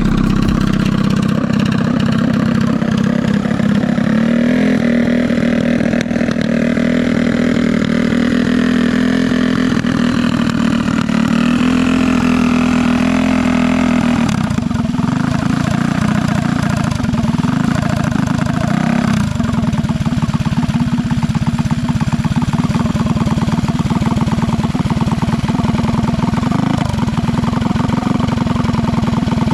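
Drag minibike's small engine running steadily at idle.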